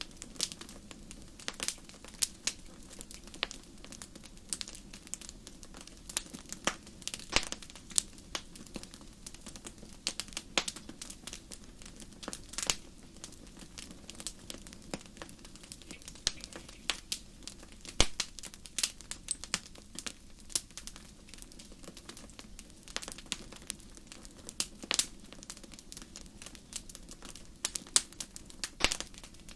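Wood fire burning in a fireplace: irregular crackles and sharp pops over a low steady hiss, with a few louder snaps scattered through.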